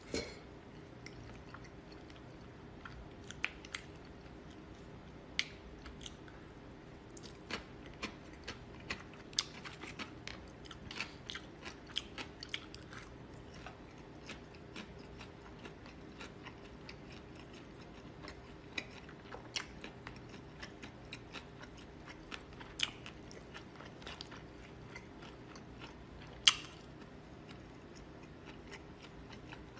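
A person chewing noodles close to the microphone, with wet mouth smacks and scattered sharp clicks; the loudest click comes near the end. A faint steady hum runs underneath.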